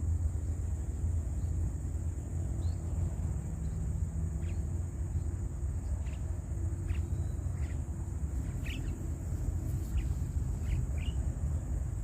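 Short, separate bird chirps at irregular intervals over a steady low rumble and a constant high-pitched hiss.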